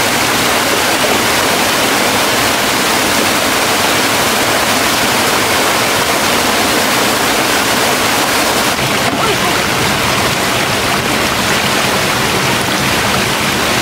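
Loud, steady rush of a waterfall: white water pouring over rocks without a break.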